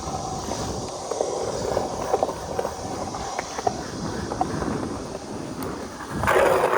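Skateboard rolling and carving on concrete: a steady rumble of the wheels with scattered light clicks, and a louder rush of noise near the end.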